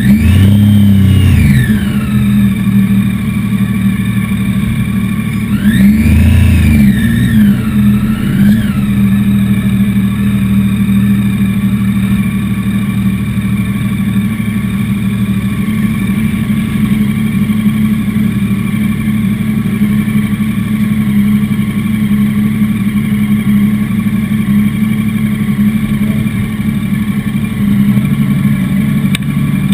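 Motorcycle engines idling steadily, the Triumph sportbike's own engine closest. The revs are blipped up and down about a second in, and again in a longer burst of revving around six to nine seconds in.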